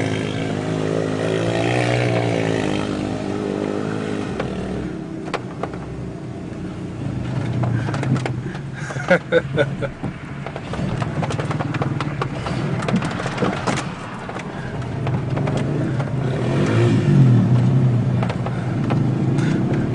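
Off-road vehicle engine revving up and down as it is driven, with a run of sharp knocks and rattles in the middle before the engine pulls up again near the end.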